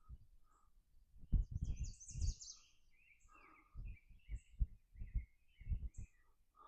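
Songbirds chirping, a run of short quick notes with a few higher sweeping calls about two seconds in. Irregular low muffled thumps close to the microphone run alongside them.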